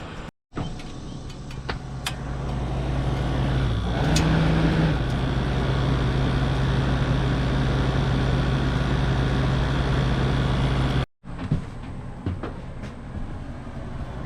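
Rooftop air conditioner running: a steady mechanical hum of its fan and compressor, with a brief dip and rise in pitch about four seconds in, broken by two short silences.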